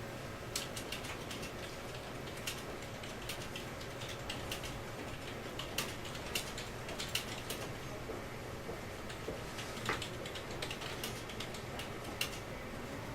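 Sparse, irregular light clicks and taps, a few each second at uneven spacing, over a steady low hum of office room tone.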